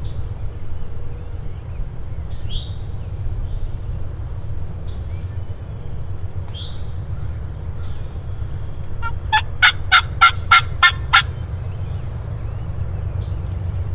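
Wild turkey calling: a quick run of about eight loud, evenly spaced notes lasting about two seconds, a little over halfway through. Faint songbird chirps sound now and then over a low steady rumble.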